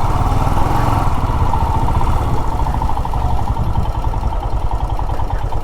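Royal Enfield Himalayan's single-cylinder engine running steadily under way, with a dense low thump.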